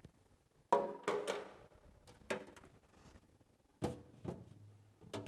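Plastic refrigerator crisper drawers being handled: about six knocks and thunks with short ringing tails as the drawers are moved and set back in place.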